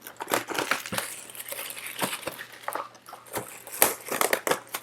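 Scattered crinkles, taps and clicks of a sealed trading-card box being handled and opened: wrapper and cardboard rustling under the hands.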